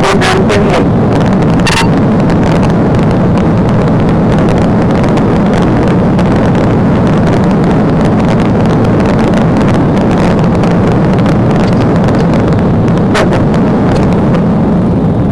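Police cruiser at speed during a pursuit: steady, loud road and wind noise with the engine running under it, and a few sharp knocks in the first couple of seconds.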